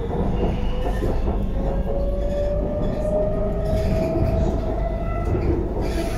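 Bangkok BTS Skytrain car pulling away from a station, heard from inside the car: a steady rumble of the wheels on the track, with a motor whine that rises in pitch over the first four seconds as the train gathers speed, then levels off.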